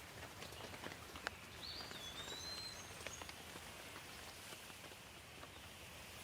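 Steady light rain with scattered individual drops striking close by. A bird gives a short whistled call about two seconds in.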